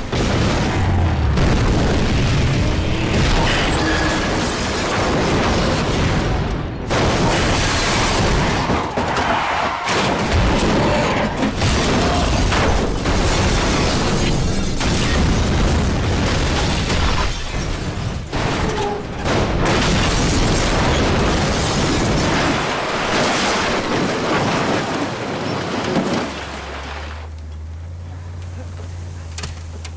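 Action-film ambush soundtrack of explosions and impacts, loud and dense, with repeated sharp hits. About 26 seconds in it drops to a quieter steady low rumble.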